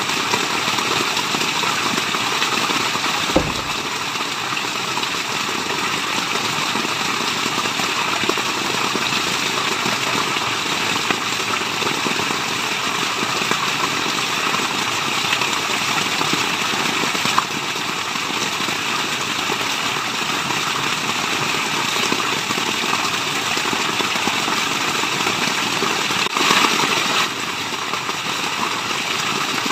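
Steady rushing water of a waterfall, an even wash of white noise, with a brief low thump about three seconds in and a short swell in the rush near the end.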